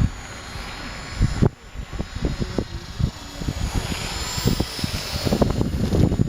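Electric RC helicopter (Align T-Rex 450 Pro with a Scorpion brushless motor) in flight: a steady motor and rotor whine heard under loud, irregular low rumbling.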